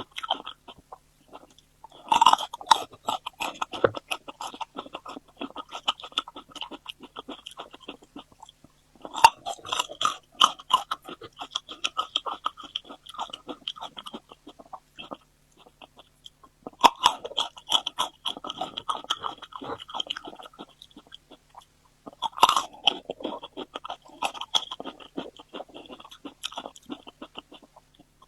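A person chewing food with wet, clicking mouth sounds, in four bouts of a few seconds each separated by short pauses.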